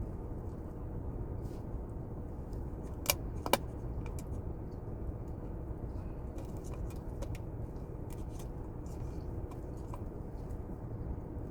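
Quiet eating: faint scattered mouth clicks over a steady low background hum, with two sharp clicks a half second apart about three seconds in.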